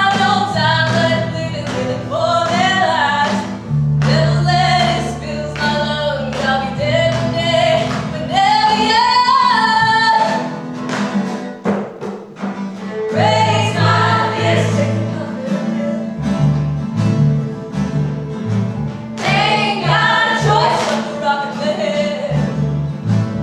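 Live song from a musical-theatre concept album: voices singing a melody over instrumental accompaniment, with sustained bass notes that break into a pulsing rhythm about two-thirds of the way through.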